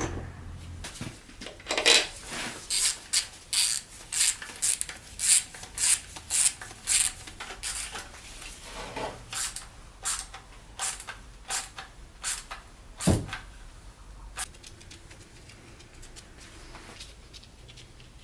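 A run of sharp, irregular clicks and knocks, about one or two a second, as hard parts or tools are handled. They stop about fourteen seconds in.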